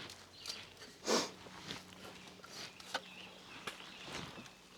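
A hiker's scattered, faint steps and scuffs while climbing down an aluminum ladder, with a louder scuff about a second in.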